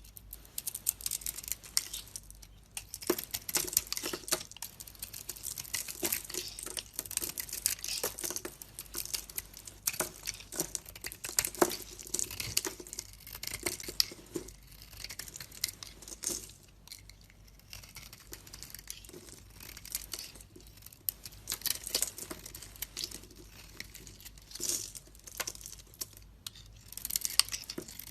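A knife cutting and scraping through a bar of soap, with dense crisp crackling as the soap flakes and crumbles away. There are a few brief lulls.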